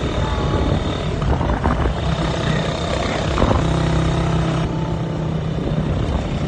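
Motorcycle engine running at a steady speed on the move, with wind rushing over the microphone.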